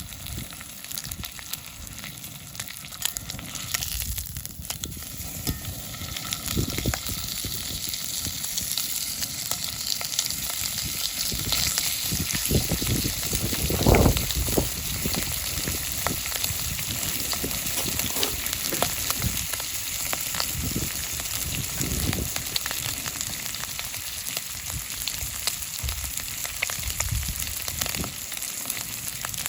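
Thick-cut bacon and eggs sizzling in oil in a pan over a campfire: a steady frying hiss full of small crackles and spits. A single louder knock comes about halfway through.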